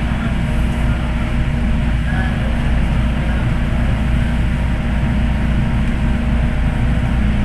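Hong Kong MTR M-Train electric multiple unit running at speed through an underground tunnel, heard from inside the carriage: a steady loud low rumble of wheels on rail with a steady low hum.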